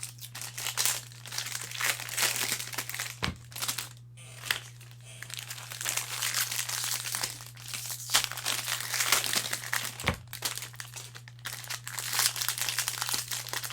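Foil trading-card pack wrappers and box packaging being crinkled and torn open by hand, an irregular rustle with sharper tearing and handling bursts.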